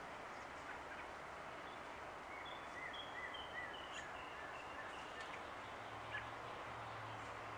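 A bird giving a short run of high, warbling chirp notes around the middle, over a steady outdoor background hiss.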